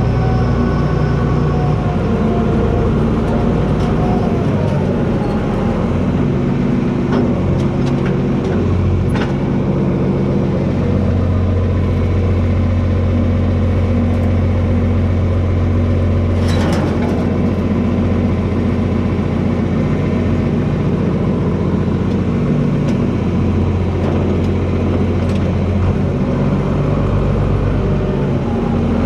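John Deere 4320 tractor's six-cylinder diesel engine running hard while its blade pushes trees, the engine note dipping and recovering as the load changes. A few short sharp cracks or knocks cut through it, the loudest just past halfway.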